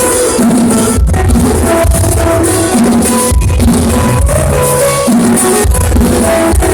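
Live band playing a song with drums and a heavy bass, recorded loud and distorted through a cheap phone's microphone.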